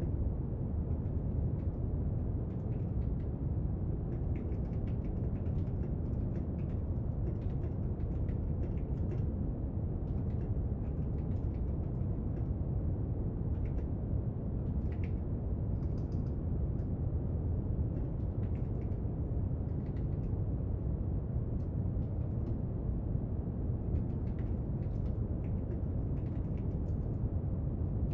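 Steady brown noise, a deep even rushing hiss, with faint scattered small clicks and taps from desk work over it.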